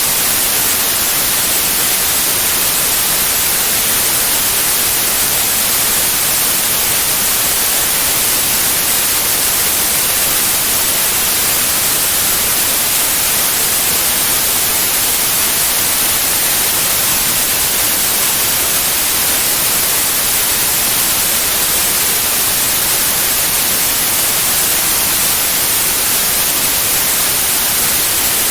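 Steady white noise: an even, unbroken hiss, strongest in the high end, with no changes in level.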